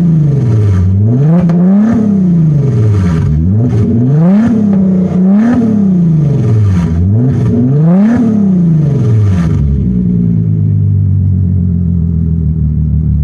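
Volkswagen Passat 3.6-litre VR6 engine with its mufflers and centre resonator removed, revved up and let fall about five times in a row, then settling to a steady idle for the last few seconds. A slight rattle from the unhung exhaust pipes comes as the revs drop.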